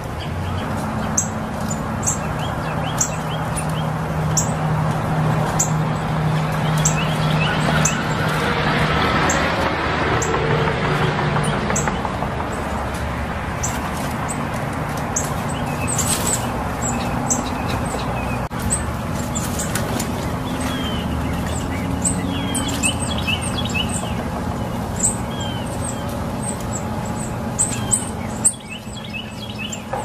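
Small birds chirping, with many short, sharp high chips and brief chirp runs scattered throughout, over a steady low rumble of vehicle noise.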